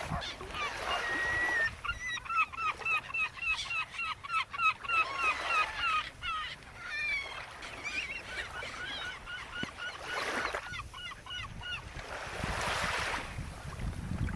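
Birds calling in quick runs of short, hooked notes, several a second, through most of the stretch, with brief rushes of hissing noise in between.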